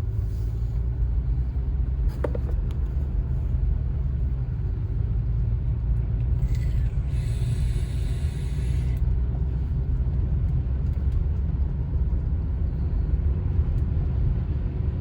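Car cabin road noise from a car driving on snowy roads: a steady low rumble of engine and tyres, with a brief higher hiss about seven seconds in.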